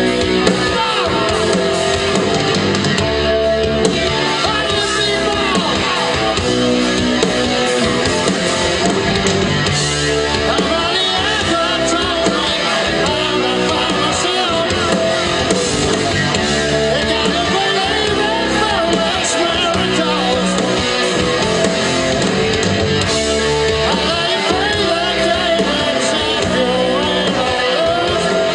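Rock band playing live, with electric guitar prominent, at a steady loud level.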